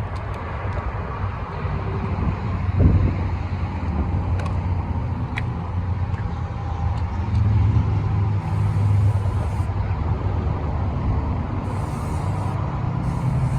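Car running: a steady low engine and road rumble, with a brief louder swell about three seconds in.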